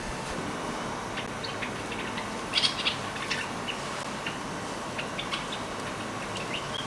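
Blackcap giving short, sharp chirping calls scattered through, with a louder cluster of notes a little under three seconds in, over a steady background hiss.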